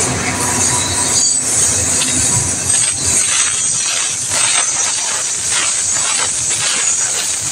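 Freight train wagons rolling past close by: steel wheels running on the rails, with a rhythmic clacking of the wheels from about three seconds in.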